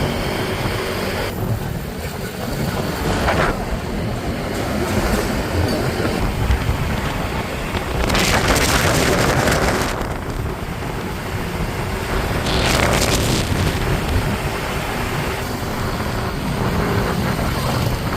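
Motorcycle running at road speed, with its engine, tyre noise and wind on the microphone, and louder rushing swells about eight seconds in and again about thirteen seconds in.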